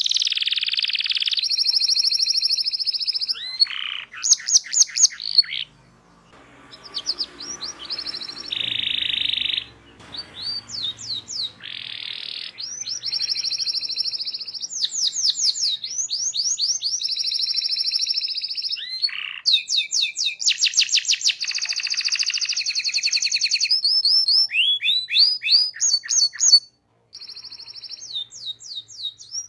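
Domestic canary singing a long, continuous song of fast rolling trills and rapid chirps, with runs of quickly repeated downward-sweeping notes. There is a softer lull about six seconds in, and the song breaks off briefly near the end.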